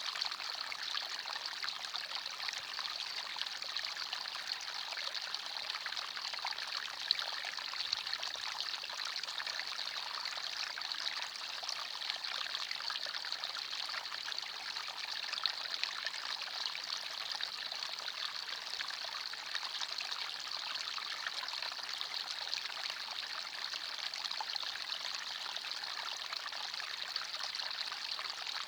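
Forest stream: water running and trickling over stones in a steady, even babble.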